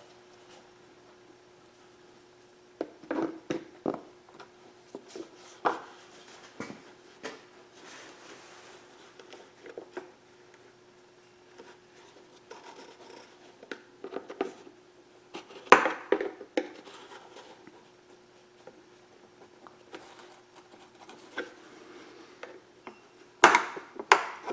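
Hand work on a kayak pedal drive's gear housing as its cover is eased off: scattered light clicks, taps and scrapes of the parts and tools, with a sharper knock about 16 seconds in and a cluster of knocks near the end.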